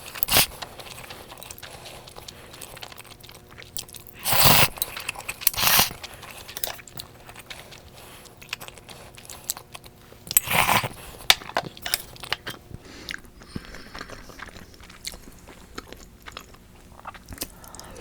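A person eating close to the microphone: chewing with small wet mouth clicks throughout, and three louder noisy bites or slurps about four and a half, six and ten and a half seconds in.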